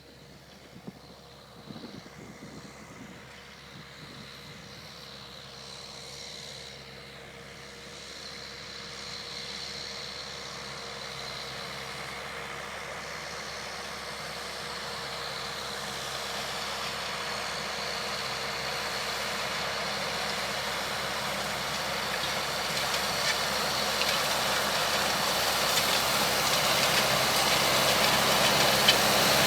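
Deutz Agrotron tractor engine running steadily while pulling a Vogel & Noot TerraDisc pro disc harrow, getting steadily louder throughout.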